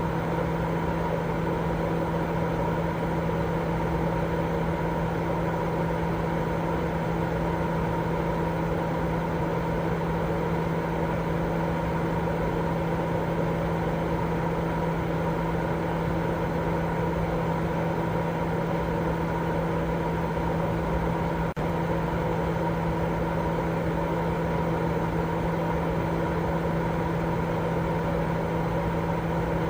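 Continuous baby-sleep white noise: an even rushing hiss with a steady low hum running under it, unchanging in level, with one very brief dip about two-thirds of the way through.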